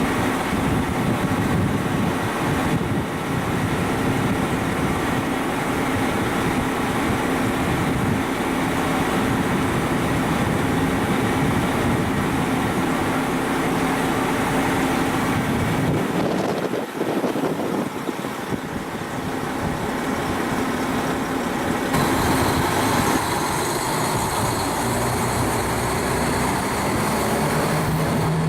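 Strong wind buffeting the microphone over the steady hum of a KiHa 261 series diesel railcar's engines running while the train stands at the platform; near the end a new, lower engine note comes in.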